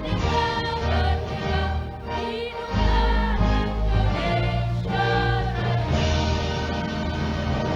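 A choir singing with instrumental accompaniment, several voices together over a steady bass line.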